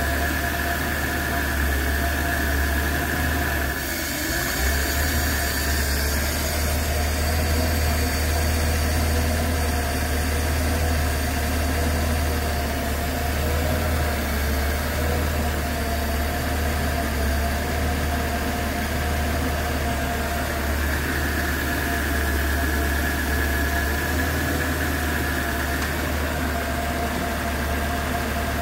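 Mercedes-Benz M103 straight-six petrol engine idling steadily while warm after a hot start. A faint high whine fades out after a few seconds and comes back for the last several seconds.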